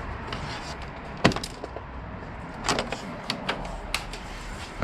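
Scattered clicks and knocks of plastic motorcycle fairing panels and their snap fasteners being worked loose by hand, over a low background rumble. One sharp knock comes about a second in, followed by several lighter clicks.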